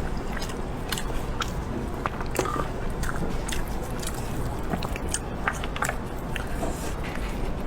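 A person biting and chewing food close to the microphone, with irregular sharp mouth clicks and crunches about one or two a second.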